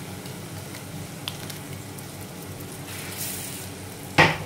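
Tomato purée sizzling steadily in hot ghee with fried onions and spices in a frying pan. Near the end comes one short, loud scrape as a silicone spatula starts stirring the purée.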